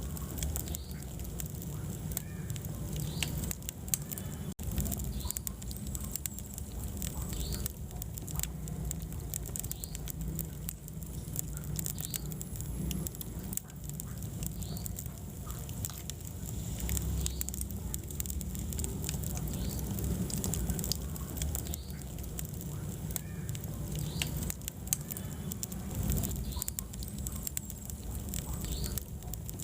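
Wood fire burning in a fireplace: frequent irregular crackles and pops from the burning logs over a steady low rumble of the flames.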